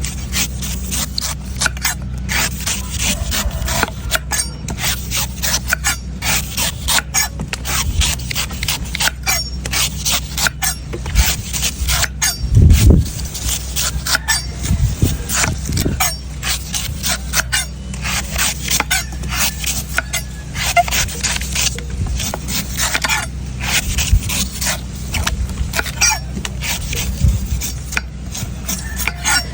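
A knife cutting and shaving a coconut: a quick, continuous run of sharp scraping cuts, with one heavier thump about thirteen seconds in. A steady low hum runs underneath.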